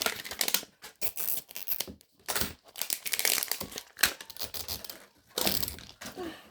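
Thin plastic toy packaging crinkling and tearing in a series of short, irregular rustles as it is unwrapped by hand.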